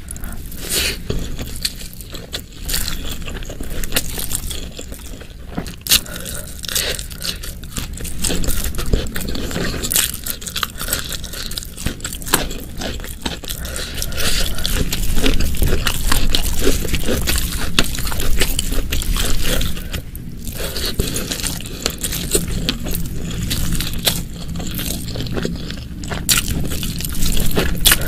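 Close-miked chewing and biting of food, a dense run of irregular short clicks and mouth noises, a little louder about halfway through.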